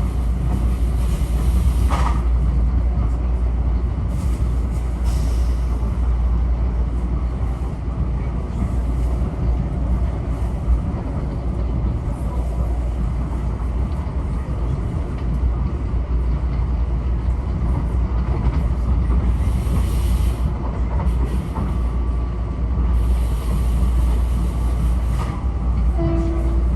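Metro-North M7A electric multiple-unit railcar running at speed, heard from inside the car: a steady low rumble of wheels on rail and running gear, with a few brief hisses.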